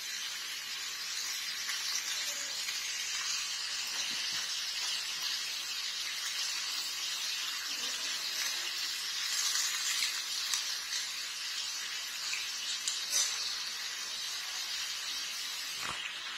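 Green beans sizzling as they stir-fry in a wok over a gas burner: a steady frying hiss with a few light clicks.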